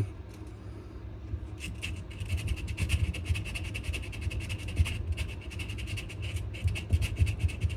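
Sandpaper rubbed quickly back and forth by hand over a wenge-and-maple knife handle in rough sanding. The strokes are rapid and pick up about a second and a half in.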